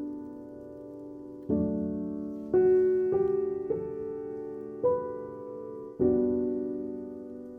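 Soft, slow background piano music: sparse notes and chords, each struck and left to ring out.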